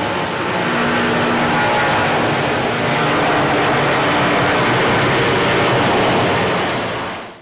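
Airbus A330-200 twin jet engines at takeoff power, a steady, loud roar with faint steady tones in it, which drops away sharply about seven seconds in.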